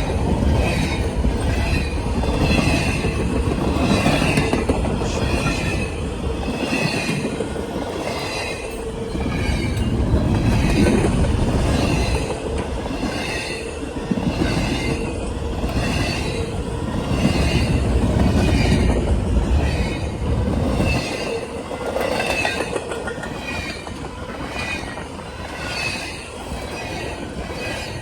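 Railroad cars rolling past close by: a steady rumble that swells and fades every few seconds, wheels clacking over the rail joints about once a second, with some wheel squeal.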